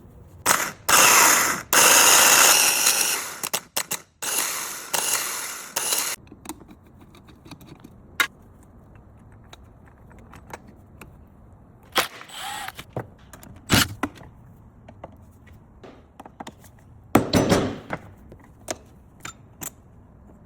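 Workshop tool and metal noises during starter motor repair: a run of loud bursts of up to about two seconds in the first six seconds, then scattered sharp clicks and clanks with a few more short bursts.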